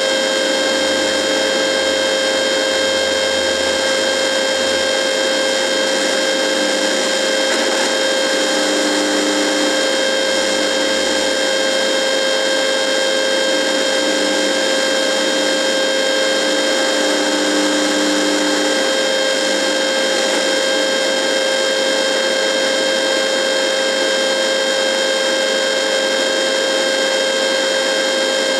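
Radio buzzing: a steady electrical buzz with many overtones over a hiss, with faint lower tones wavering in and out partway through.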